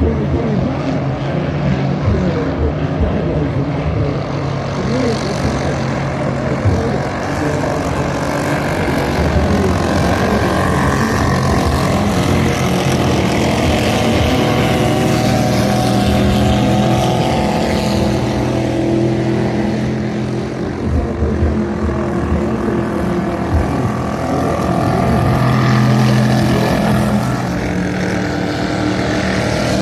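Vintage racing speedboat engines running hard at speed. The pitch slides down as boats pass, with one clear falling sweep about halfway through.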